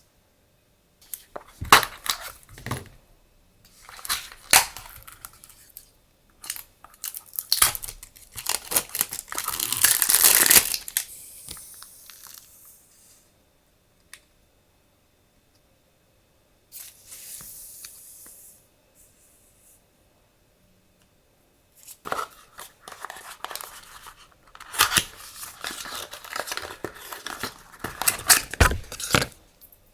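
Plastic and paper packaging crinkling and tearing as stationery is unwrapped by hand. It comes in irregular bursts of crackling with sharp clicks, separated by short silences. The longest and loudest stretch is near the middle, and dense crackling returns near the end.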